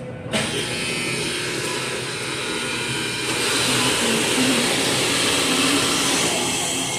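Steady car noise of engine and road, heard from a car, a little louder from about three seconds in.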